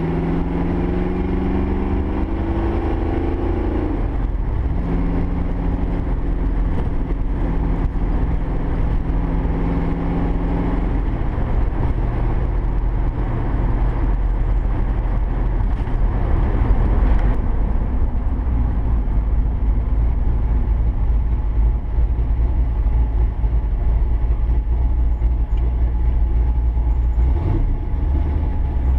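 A 392 cubic-inch stroker V8 in a 1965 Mustang fastback running under way. Its note climbs for the first few seconds, drops about four seconds in, and holds steady. From about a third of the way through it settles into a deep low rumble mixed with road noise.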